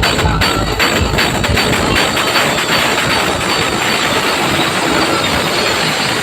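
Loud, harsh, distorted roar from a DJ sound system at competition volume, noisy rather than musical. Heavy bass at the start drops away after about two seconds.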